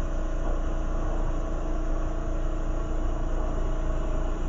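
Lampworking torch flame burning with a steady rumbling roar, with a faint steady hum under it.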